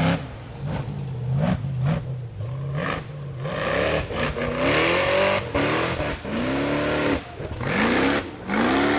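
Rock bouncer buggy's engine revving hard again and again, its pitch rising and falling in repeated throttle blips. It revs lower in the first few seconds, then climbs into higher, longer swells from about three and a half seconds in.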